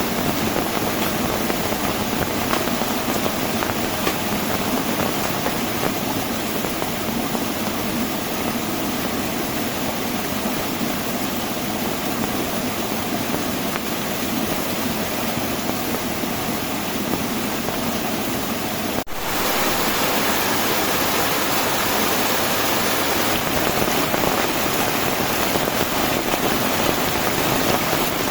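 Heavy rain falling steadily, an even roar of water with no let-up. About two-thirds of the way through, the sound breaks off for an instant and comes back slightly louder.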